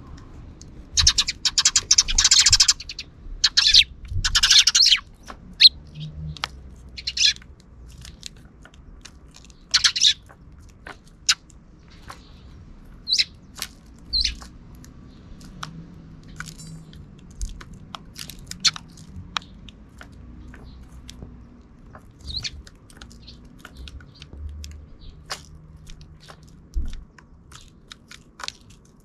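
Sparrows chirping: two loud bursts of harsh chattering in the first five seconds, then scattered single chirps and short sharp ticks.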